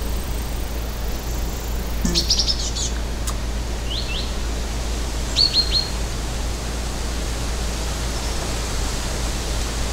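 Bird chirping in short bouts of quick, high, falling chirps: a rapid cluster about two seconds in, a pair at four seconds, and three more just after five seconds. Underneath is a steady low hum and hiss.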